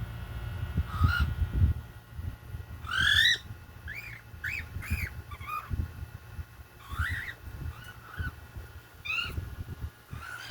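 Young hand-fed cockatiels calling: about a dozen short rising chirps, the loudest and longest about three seconds in. Low knocks and rumbling sound underneath.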